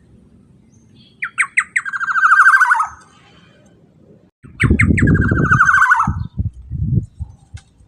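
Black-naped oriole (kepodang) giving two loud harsh calls. Each is a few quick sharp notes running into a fast buzzy rattle that drops in pitch at the end. A low rumble and a few thumps sound under the second call.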